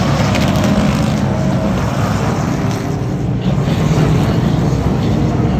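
A field of NASCAR Craftsman Truck Series race trucks running their V8 engines at pace-lap speed, a steady, even engine drone with no revving.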